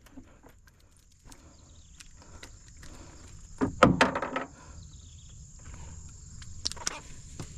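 Scattered knocks, clicks and rubbing from fishing line and gear being handled in a small boat while a hooked fish is brought in, with a louder cluster of knocks and scrapes in the middle.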